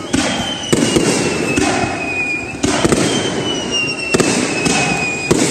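Aerial fireworks bursting one after another, about six loud bangs, with a high whistle sliding slowly down in pitch after several of them.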